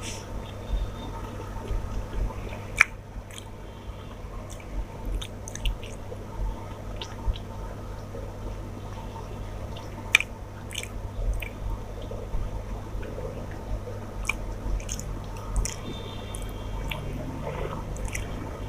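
A person chewing and eating rice and fish curry by hand, with wet smacking and sharp clicks of the mouth, against a steady low hum.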